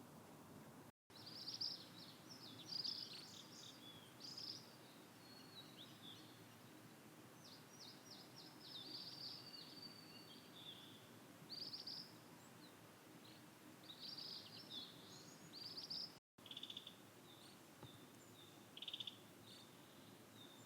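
Faint calls of ashy minivets: repeated short, high, ringing trills in clusters, over a low background hiss. The sound cuts out completely twice for a moment.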